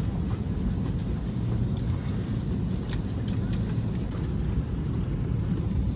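Steady low rumble of cabin noise inside a parked Airbus A321neo with its engines not yet running, with a few faint clicks and murmured passenger voices.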